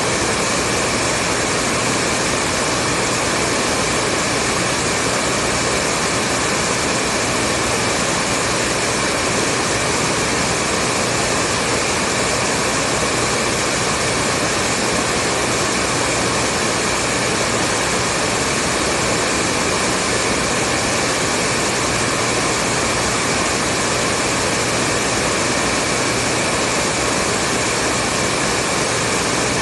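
Hair dryer running steadily: an even whoosh of blown air with a faint steady hum and whine in it.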